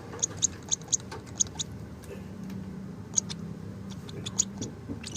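Baby lovebird chirping: quick, short, high chirps, several a second, which thin out in the middle and pick up again near the end.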